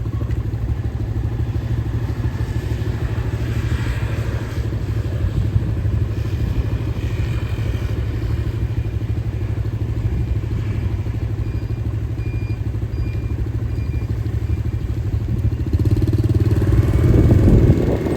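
Motorcycle engine running steadily, getting louder near the end, with a few short high beeps in the middle.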